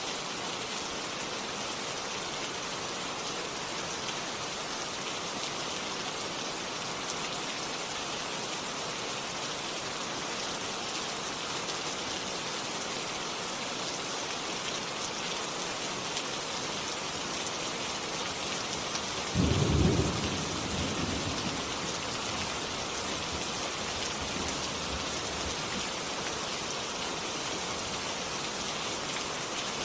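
Steady rain falling, with a single sudden clap of thunder about two-thirds of the way through that rumbles off over a couple of seconds.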